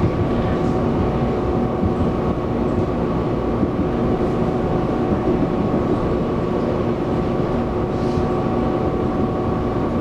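Running sound of a Taiwan Railways EMU700 electric multiple unit heard inside the passenger car: a steady rumble of wheels on rail with a constant hum made of several held tones.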